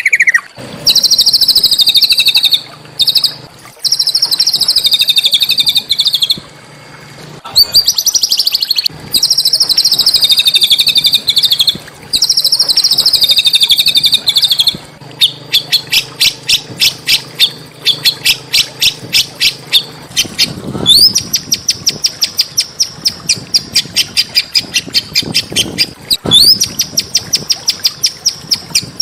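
Small songbird singing loud trilled phrases. First come buzzy trills of about two seconds each with short gaps. About halfway in it changes to a fast run of sharp repeated notes, about four a second, twice led in by a rising whistle into a high trill.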